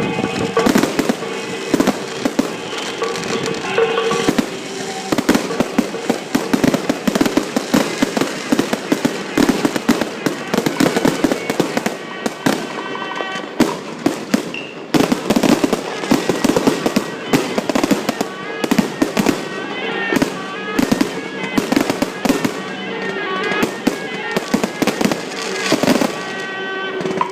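Fireworks going off in a long, dense barrage of rapid sharp cracks. Loud music with steady held notes plays underneath.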